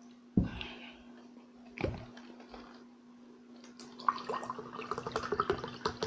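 Close-up eating sounds: two dull knocks near the start, then a quick run of wet, crackly chewing and crunching clicks in the last two seconds.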